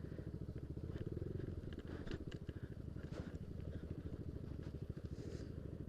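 Yamaha Aerox scooter's single-cylinder engine running under way, heard as a low, fast, even pulsing, with a few faint clicks over it.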